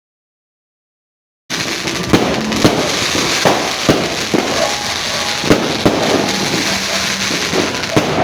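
New Year fireworks and firecrackers going off nonstop: a dense crackle with sharp bangs every half second or so, starting abruptly after about a second and a half of dead silence.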